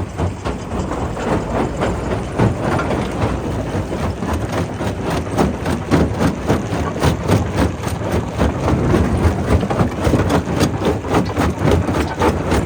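Primary rock crusher crushing stone: a steady low machine rumble under dense, irregular knocks and cracks of rock.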